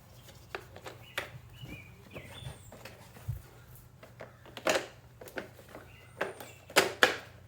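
Clicks and knocks of plastic parts being handled as the collection bag is fitted onto a leaf blower-vacuum, the motor not yet running; the loudest knocks come near the middle and near the end. A bird chirps briefly a few times.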